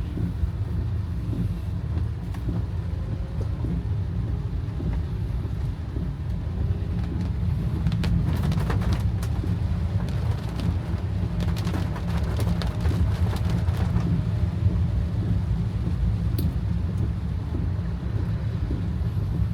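Steady low rumble of a car's engine and tyres on a wet road, heard inside the cabin, with raindrops ticking on the car's body and glass, in thicker clusters about eight seconds in and again for a few seconds past the middle.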